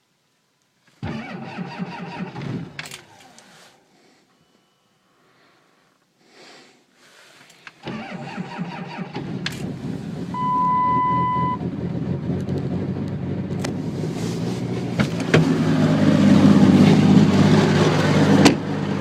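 Cold start of a Cummins 5.9 inline-six turbodiesel with its intake grid heater deleted and a 4-inch turbo-back exhaust: the starter cranks briefly about a second in and stops, then cranks again near the middle until the engine catches and runs, growing louder and steadier toward the end. A short steady beep sounds while it cranks the second time.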